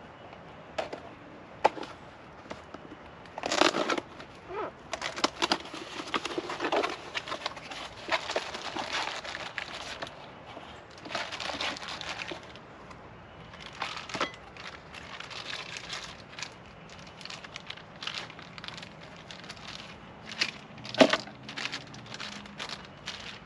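Packaging being handled and unwrapped: irregular crinkling and rustling with scattered sharp clicks, the loudest click near the end.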